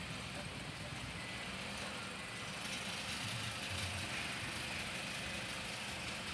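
Nissan Serena minivan's engine running steadily at idle, a low even hum.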